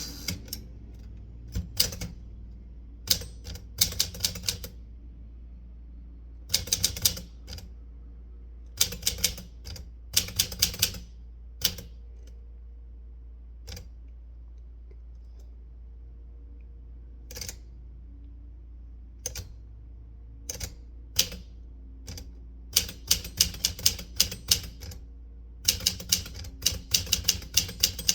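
Typewriter keys striking in short bursts of clicks with pauses between words, a longer pause around the middle, then a faster run of typing near the end.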